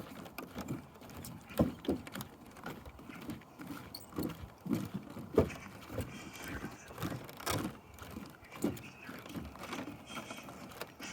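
Footsteps on a wooden bridge's boards: irregular knocks and thuds as people walk across, a few of them louder than the rest.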